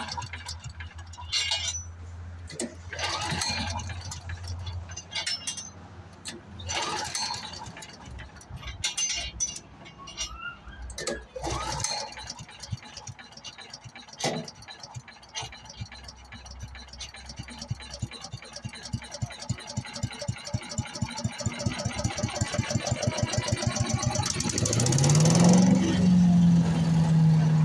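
Scattered clicks and rattles, then a Predator small gasoline engine on the wood chipper firing with a pulsing beat that quickens and grows louder for about twelve seconds. Near the end it catches and revs up, its pitch rising and then settling into a steady run.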